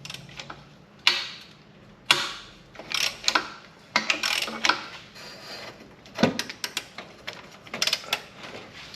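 Ratchet wrench clicking in short irregular bursts as a penetrant-soaked exhaust pipe bolt is worked loose.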